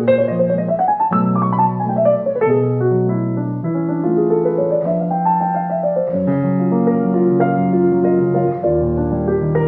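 Solo piano music with flowing arpeggio runs that climb and fall over held low chords.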